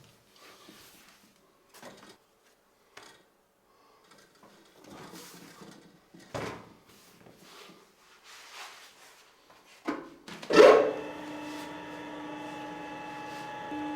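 Soft rubbing and light knocks of dough being handled on a wooden work surface, then a loud knock about ten and a half seconds in. An electric bakery machine then starts and runs with a steady hum and whine.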